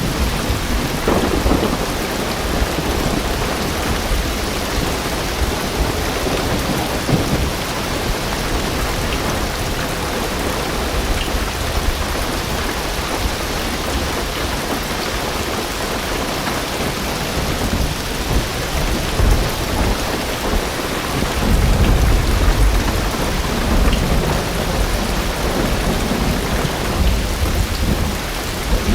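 Heavy rain drumming steadily on a car roof and windows, heard from inside the car, with wind and low rolls of thunder. The strongest rumble comes about three-quarters of the way through.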